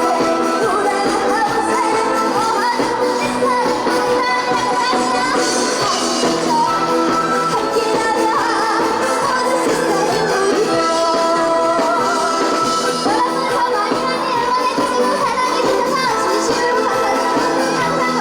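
A trot song performed live: a young girl singing over an instrumental backing track.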